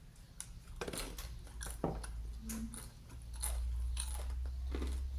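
Close-miked biting and chewing of crisp batter-fried food, with a run of sharp crunches and crackles.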